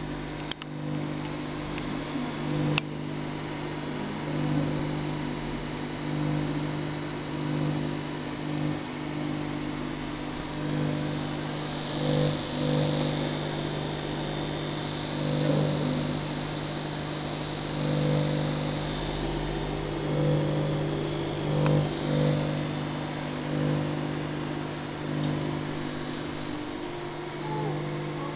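APC BI850SINE sine-wave inverter UPS humming while running in inverter mode, a steady low electrical hum that swells and eases every couple of seconds. Two sharp clicks come within the first three seconds.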